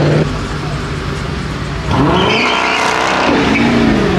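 Car engines running amid a crowd of cars. About two seconds in, one engine revs hard, its pitch climbing and then falling away, with a brief high hiss at the peak.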